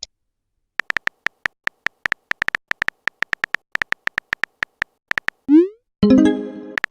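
Chat-app sound effects: a quick, irregular run of short typing blips, several a second. About five and a half seconds in comes a short rising swoop, then a bright chime like a message alert.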